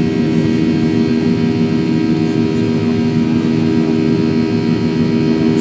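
Jet airliner's engines at take-off thrust, heard inside the passenger cabin as a loud, steady drone with a low hum of several held tones.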